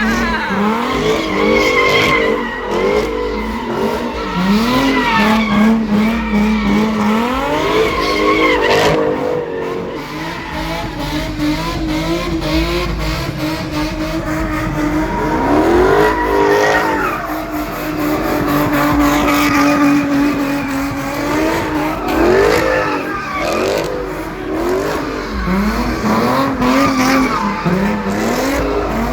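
Cars doing donuts: engines revving up again and again and holding at high revs, with tires squealing and skidding.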